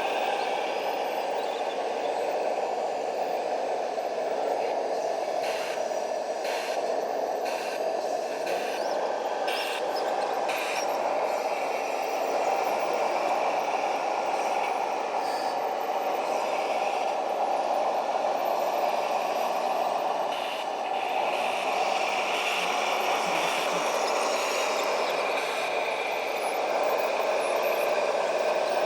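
Radio-controlled model trucks and construction machines running: a steady mechanical whine with rattling and clatter, and a string of sharp clicks a few seconds in.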